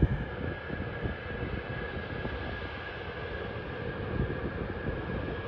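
Jet engines of a Boeing 737 running steadily at idle: an even rumble with a faint steady whine above it.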